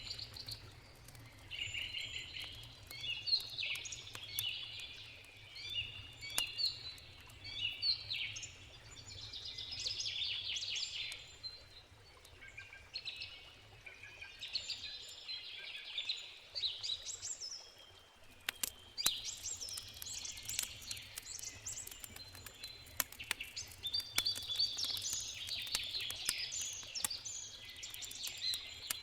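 Wild birds singing and chirping in repeated phrases, with scattered sharp crackles and pops from a wood campfire over a low steady rumble.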